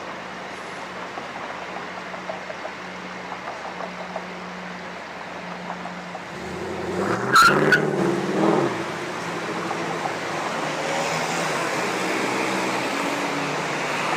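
Street traffic: a motor vehicle passes about halfway through, its engine note rising and then falling, with a sharp knock near its loudest point. A steady, louder rush follows.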